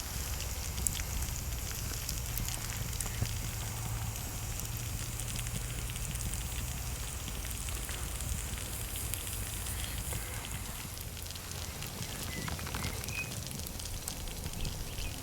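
Wood fire crackling: many small pops over a steady hiss.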